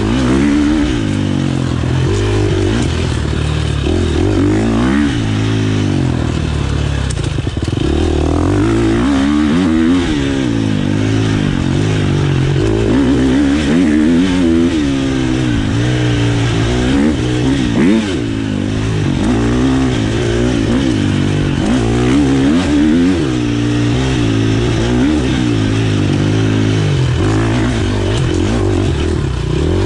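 Enduro motorcycle engine revving hard and backing off over and over, its pitch rising and falling every second or two as the bike is ridden through a special test.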